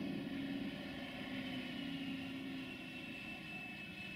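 Freight train's covered hopper wagons rolling away on the track, a steady rumble slowly fading, with a thin high whine through the middle.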